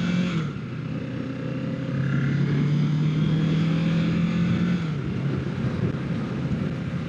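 Kawasaki Ninja 650 parallel-twin engine running steadily while the motorcycle is ridden, with wind noise. The engine note fades about five seconds in, leaving mostly wind rush.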